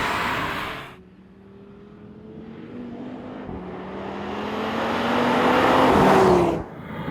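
2022 Audi RS3's 2.5-litre turbocharged five-cylinder accelerating hard: a loud rush fades out in the first second, then the engine note climbs steadily in pitch and grows louder before cutting off sharply near the end.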